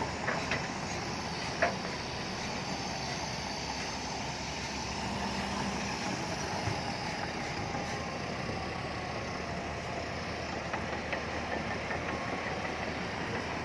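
Heavy diesel engine of a SHANTUI crawler bulldozer running steadily at a work site, with a few short metallic knocks, the sharpest about a second and a half in.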